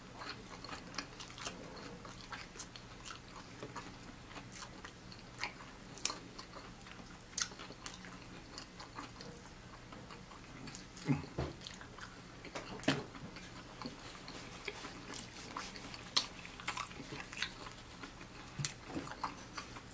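Close-up chewing and biting of fried chicken: moist mouth sounds with scattered small crunches and clicks, and a few louder bites partway through.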